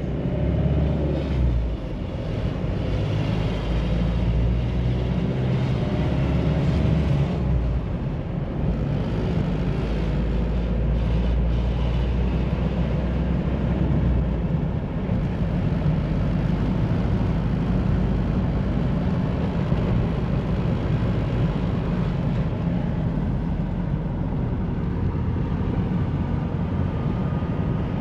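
Mahindra Bolero SUV on the move: its diesel engine runs with a steady low rumble, mixed with road noise. The pitch shifts slightly in the first couple of seconds.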